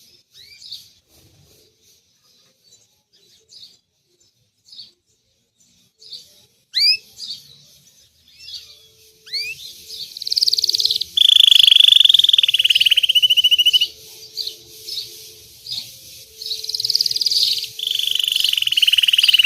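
Domestic canary (Belgian canary) singing: scattered short notes and a few quick rising chirps, then loud song with long, rapid rolling trills in the second half.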